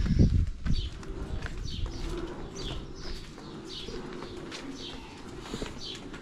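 Small birds chirping in short, high, falling notes, about two a second, with a pigeon's low cooing underneath. A brief low rumble at the very start.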